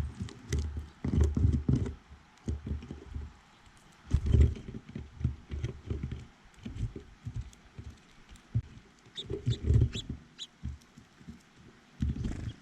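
Irregular clusters of low taps and knocks close to the microphone, with a few short high chirps between about 9 and 10 seconds in: animals feeding and moving on a bird feeder right by the camera.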